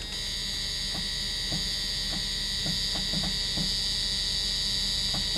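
An old car's electrical warning buzzer sounding continuously as a steady high-pitched tone, powered up by a freshly connected battery. A few faint clicks sound through it.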